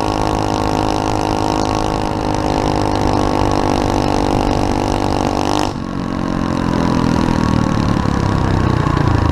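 SSR 125cc pit bike's single-cylinder four-stroke engine running at high, steady revs. About five and a half seconds in the sound changes abruptly to a lower engine note.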